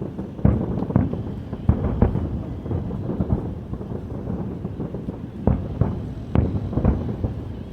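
Aerial fireworks bursting: a string of about eight sharp bangs at uneven spacing, over a continuous low rumble.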